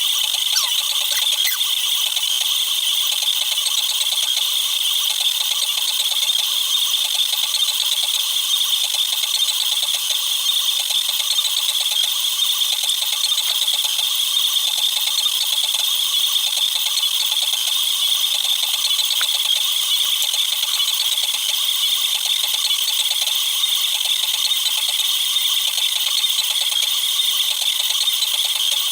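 Cubify Cube 3D printer at work, its stepper motors and moving print head sped up tenfold into a continuous, high-pitched rattling chatter.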